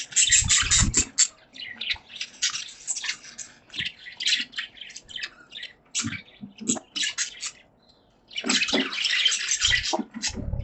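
Pet budgies chattering in a cage: a fast, scratchy string of short chirps and warbles that stops briefly a little before 8 s, then starts again in a dense burst.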